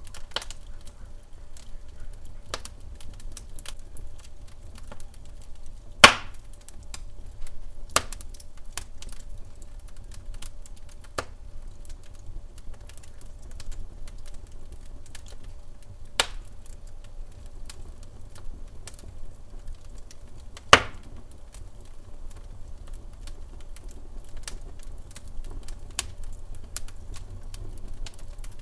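Wood fire crackling in a fireplace: scattered small snaps, with two sharp loud pops about six seconds in and about twenty-one seconds in, over a low steady rumble.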